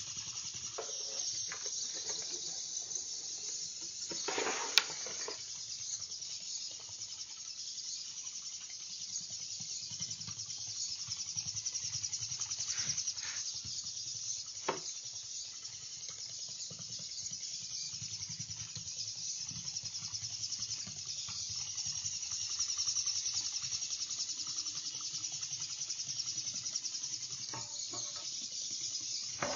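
Small electric drive motors and plastic gears of a VEX robot truck running, a steady high whir with a fast fine ticking, with a low hum that swells and fades. A few sharp knocks stand out, the loudest about five seconds in.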